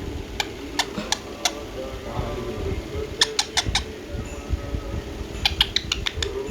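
Baby parrot giving short, sharp squawks, first singly and then in quick clusters of three or four.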